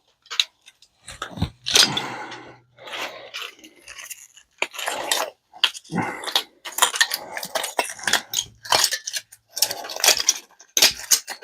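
Irregular clanks, clicks and scrapes of hand tools and metal parts as microwave magnetrons are pried apart for scrap.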